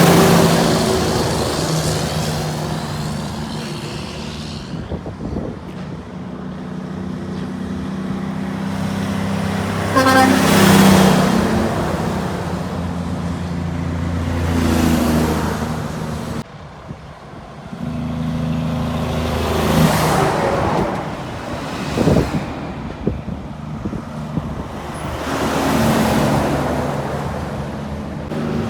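Heavy trucks and other traffic passing on a highway, diesel engines running, one vehicle after another swelling up and fading away. A horn toots about ten seconds in.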